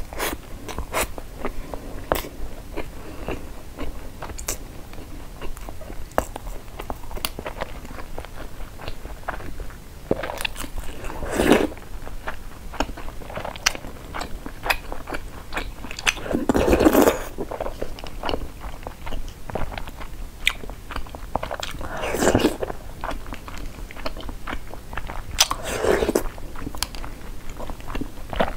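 Close-miked chewing of sushi rolls and spoonfuls of taro balls: a steady run of wet mouth clicks and smacks, with four louder, longer mouth sounds spread through.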